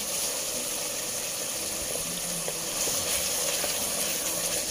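Blended chilli paste sizzling steadily in hot oil in a pot, fried until crisp, as ground dried shrimp is added and stirred in with a wooden spatula.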